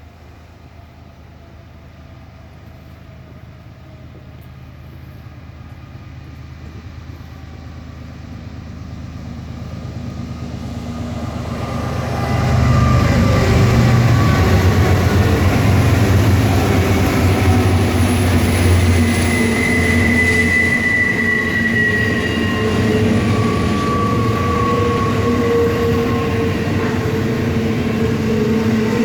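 BNSF intermodal freight train approaching, its diesel locomotives growing steadily louder for about twelve seconds, then passing close by with a loud, steady rumble of engines and wheels on rail. Thin squealing wheel tones come and go through the passing cars.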